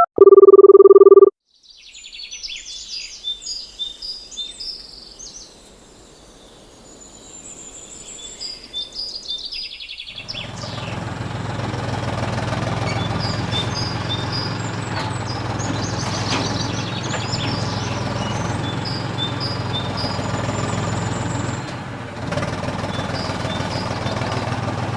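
A short electronic phone tone, then birds chirping. From about ten seconds in a steady mechanical hum joins them and keeps on under the chirps.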